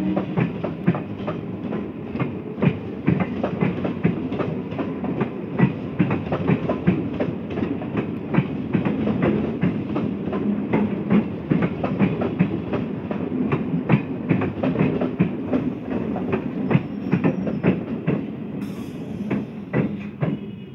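Eastern Railway electric multiple-unit (EMU) local train passing, its wheels clattering over the rail joints in a rapid, irregular clickety-clack over a steady rumble. The sound dies away near the end as the last coach goes by.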